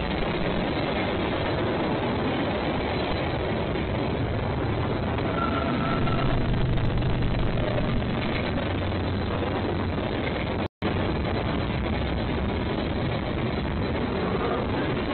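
Steady rumble of a freight train rolling past, with the sound cutting out for a split second about eleven seconds in.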